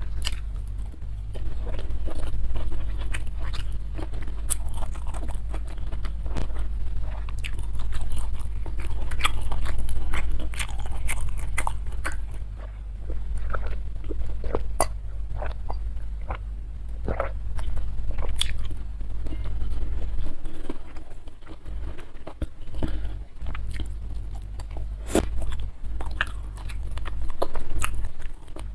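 Close-miked chewing and biting of rice and boiled fish eaten by hand, with many short, sharp, wet mouth clicks. A steady low hum runs underneath and breaks up in the later part.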